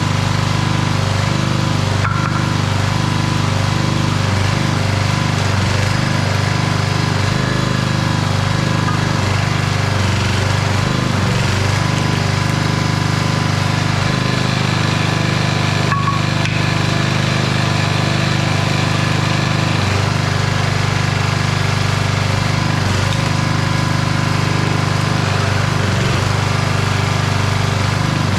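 Old 5 hp Briggs & Stratton single-cylinder engine on a homemade hydraulic log splitter, running steadily. Its note wavers briefly a few times, most around ten seconds in.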